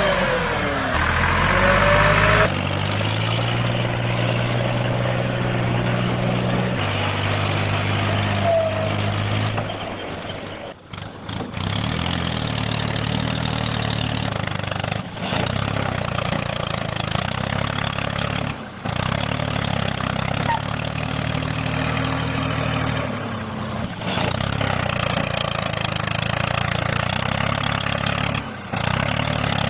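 Tractor engine running steadily, its low pitch shifting a few times, with several brief dips where the sound breaks off and resumes.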